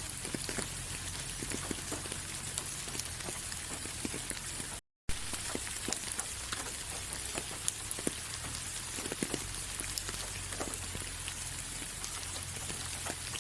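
Steady rain falling, with many separate drops ticking close by over an even hiss and a faint low hum underneath. The sound cuts out completely for a split second about five seconds in.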